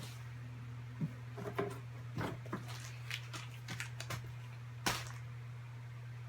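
Dry Froot Loops cereal being chewed: half a dozen sharp, irregular crunches over a steady low electrical hum.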